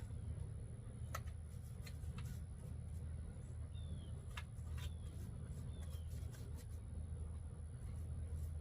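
Quiet outdoor background with a steady low rumble, scattered faint clicks and taps, and three short high chirps that fall in pitch.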